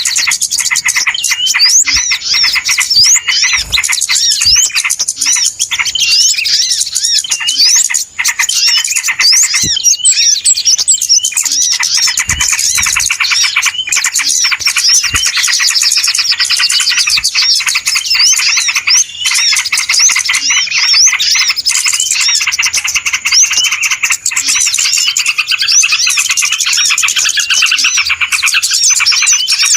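Dense, continuous chattering of many small birds, with rapid high chirps and trills overlapping without pause. It is a noisy-flock lure call used to draw small birds in for trapping.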